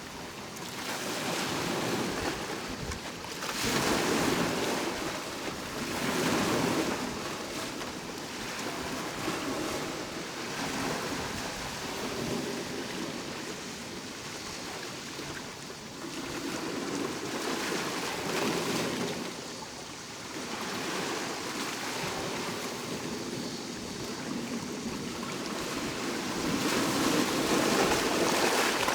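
Sea waves breaking and washing on the shore, the surf swelling and falling back every few seconds, with the loudest surge near the end.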